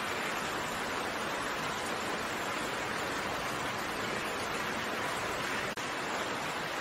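Steady rain falling as an even hiss with no single drops standing out. The level dips for an instant near the end.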